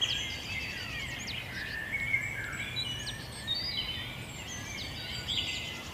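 Several birds singing at once, overlapping whistles, chirps and trills, over a steady low background hum.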